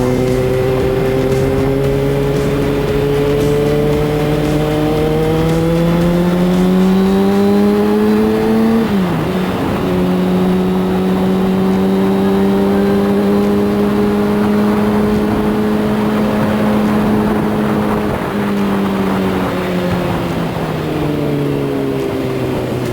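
Kawasaki Ninja ZX-6R inline-four engine through a carbon fiber Delkevic exhaust, pulling through a gear: the pitch climbs steadily for about nine seconds, drops sharply at an upshift, holds steady for several seconds, then falls away near the end.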